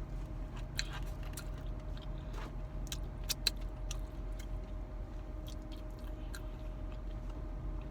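A person chewing fast food close to the microphone: scattered wet mouth clicks and smacks over a steady low hum.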